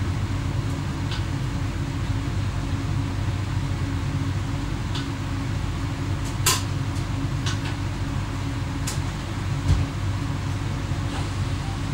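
X11 electric multiple unit heard from inside the driver's cab while running: a steady drone with a low hum, broken by a few sharp clicks, the loudest about six and a half seconds in.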